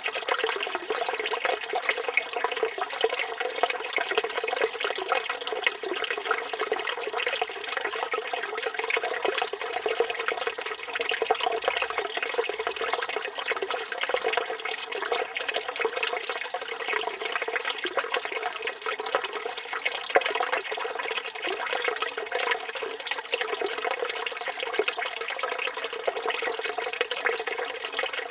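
Water pouring steadily from a village fountain's spout and splashing into its basin, a continuous spattering rush.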